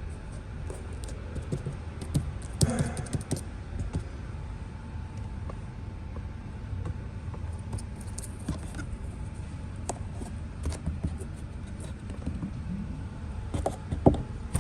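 Scattered light clicks and clatters of hands handling the loose wiring and plastic parts inside a Tesla rear door with its trim panel off, while foam tape is put on against rattles. Underneath is a low steady hum, and a faint steady tone comes in about four seconds in.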